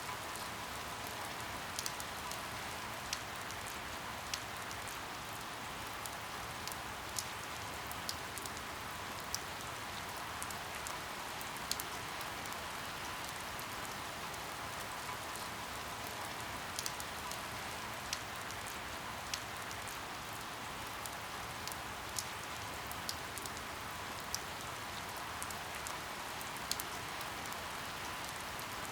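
Steady rain with scattered sharp drop ticks, about one every half second to second.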